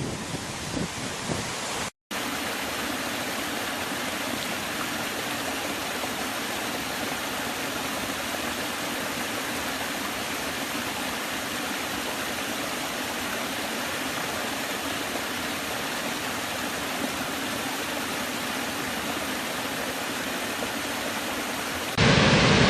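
Steady rushing of a waterfall: an even, unchanging roar of falling water, broken by a brief drop-out about two seconds in.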